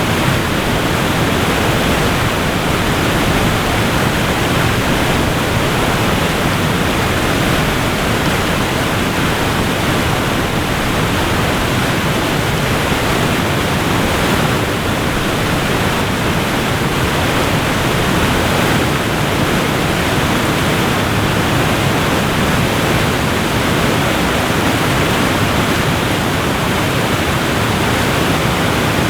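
Waterfall pouring, a steady, unbroken rush of falling water with no changes or separate events.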